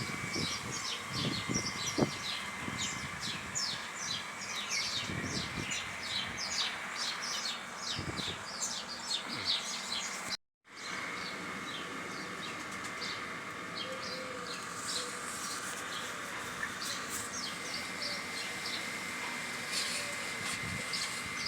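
Many small birds chirping and twittering in quick, dense calls over a steady high hum. The sound cuts out for a moment about halfway, then the chirping resumes more sparsely.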